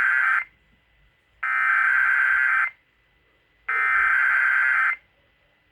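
Emergency Alert System SAME header: the end of one burst and then two more bursts of rapid, warbling digital data tones, each about a second and a quarter long with about a second of silence between them. This is the coded header that opens a broadcast tornado warning.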